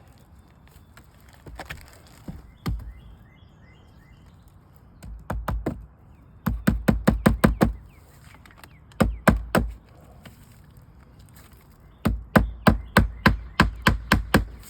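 Hammer driving nails into asphalt roof shingles, in several quick runs of sharp strikes, several a second, with short pauses between runs.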